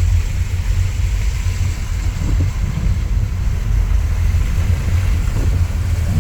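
Steady low rumble of a car driving on a wet road in heavy rain, heard from inside the cabin: engine and tyre noise with a faint hiss of water above it.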